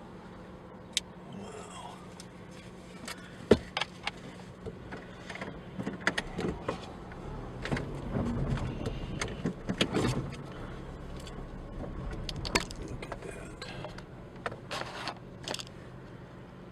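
Vehicle interior with a steady low engine hum, and scattered clicks and knocks from handling inside the car, one loud knock about three and a half seconds in.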